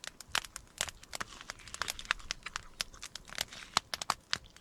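Wood fire crackling, with irregular sharp snaps and pops several times a second.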